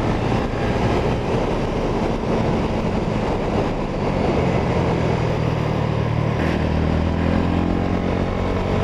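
Yamaha Sniper 150 single-cylinder four-stroke motorcycle engine running under way, its note rising and falling a little as the throttle changes, over a steady rush of wind noise.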